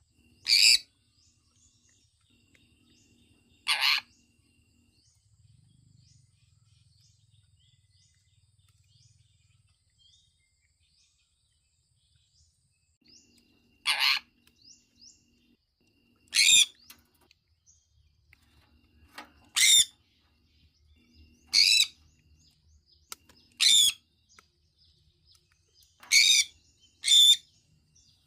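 Sun conure calling: about nine short, loud, high-pitched calls at irregular intervals, bunched closer together in the second half, with faint small chirps between them and a long lull before the middle.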